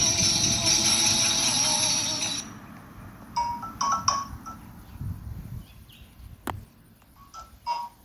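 A tambourine shaking and jingling under a held, wavering note, stopping about two and a half seconds in. Then a xylophone is struck with sparse, single notes, and there is a sharp click about six and a half seconds in.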